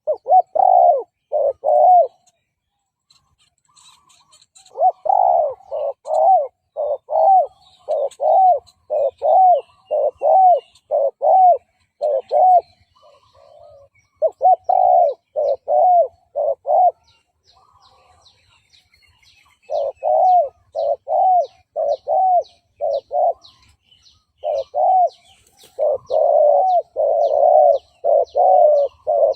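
Spotted dove cooing in runs of quick, repeated coos broken by short pauses. This is a lure-bird call meant to draw wild doves in. Faint, high chirping repeats about twice a second behind it in the second half.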